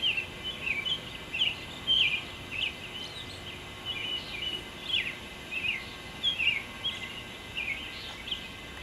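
Birds singing, a steady string of short, clear chirping notes a few per second.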